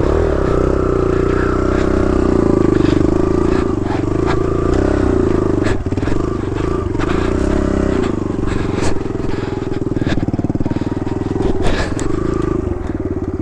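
Kawasaki KLX110 dirt bike's small four-stroke single-cylinder engine running steadily under part throttle, its pitch dipping and rising a little. Scattered sharp clicks and knocks sound over it.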